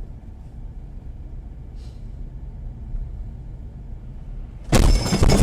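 Low, steady road and engine rumble inside a moving car, then near the end a sudden loud impact lasting under a second.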